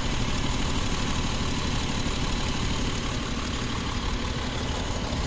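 2011 Jeep Wrangler's 3.8-litre V6 idling steadily with a misfire. The ignition coil's control wire is not being pulled to ground, which the mechanic puts down to a faulty PCM.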